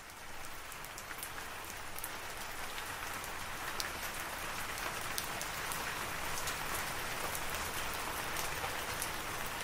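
Steady rain, fading in over the first couple of seconds, with scattered sharp drop ticks.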